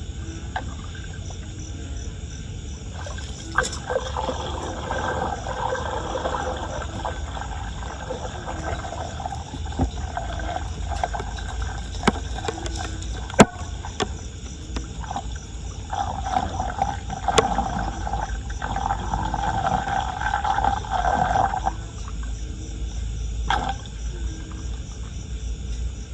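Floodwater gurgling and churning as it drains into a street drain, louder for a few seconds twice, over a steady low rumble, with a few sharp clicks.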